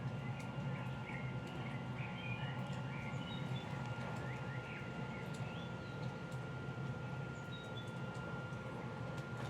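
Small birds chirping in many short calls over a steady low background rumble, with a faint steady high tone underneath.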